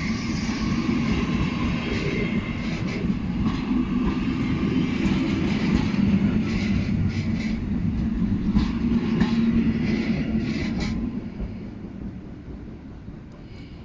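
Train hauled by steam locomotive 50 3516 rolling past: a steady rumble with a run of sharp clicks from the wheels over the rail joints, dying away about eleven seconds in.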